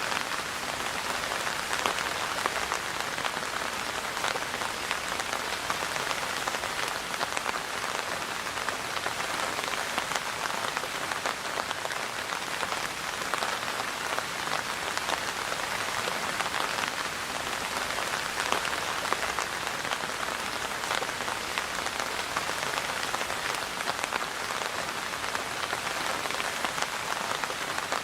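Steady rain falling on a surface: an even, dense patter of many small drops with no let-up.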